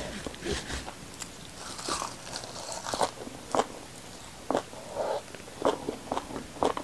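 Close-miked chewing of fresh raw herb leaves, with crisp, irregular crunches that grow sharper and more frequent about halfway through.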